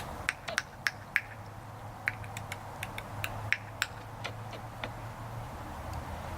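A person clicking his tongue to coax a squirrel closer: about twenty sharp, irregular clicks over a steady low hum.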